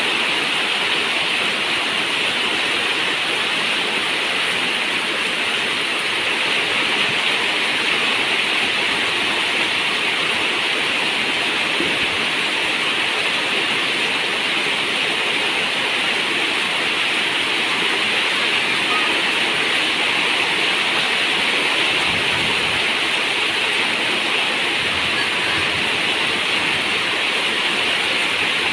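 Steady rain on a zinc roof, an even, unbroken hiss.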